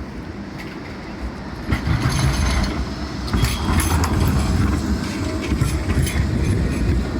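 A tram running on the rails, its low rumble growing louder about two seconds in, with scattered wheel clicks and clatter from the track.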